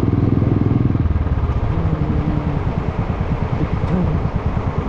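Motorcycle engine with a very loud silencer, picked up through a helmet chin-mounted action camera. Its rapid, even firing pulses are loudest in the first second, then ease off a little.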